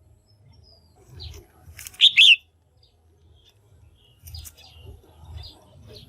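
Female red-whiskered bulbul calling: a loud double chirp, each note falling in pitch, about two seconds in, with softer chirps before and after it.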